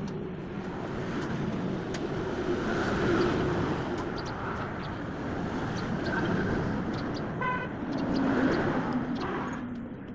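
Road traffic noise from passing vehicles, with a brief horn toot about seven and a half seconds in.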